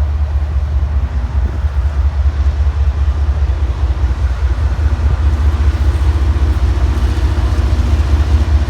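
CSX manifest freight train rolling past close by: a loud, steady low rumble, with a faint steady hum joining about five seconds in.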